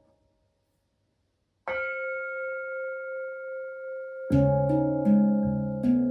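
Struck gongs in improvised music: after a short silence, one high gong tone rings out with a slow wobble, then several lower notes are struck in quick succession past the middle.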